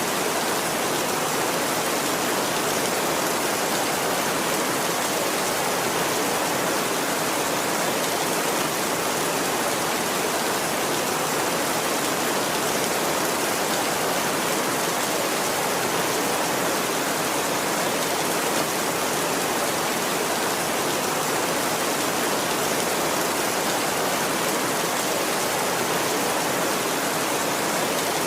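Steady heavy rain, an even unbroken hiss with no thunder.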